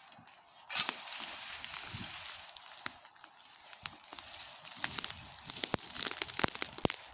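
Bonfire of garden debris crackling: a hiss scattered with sharp pops and snaps that starts suddenly about a second in and grows denser near the end.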